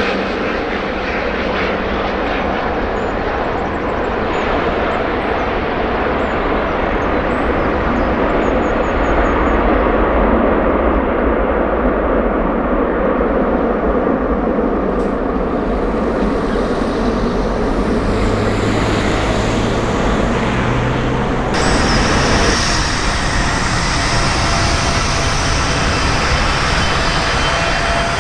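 Jet airliner engines running with a steady, loud roar. About three-quarters of the way through, the sound changes abruptly to a brighter, hissier roar.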